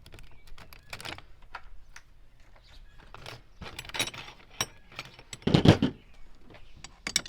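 Metal hand tools clinking and rattling as someone rummages through a toolbox, with a louder clatter about three-quarters of the way through.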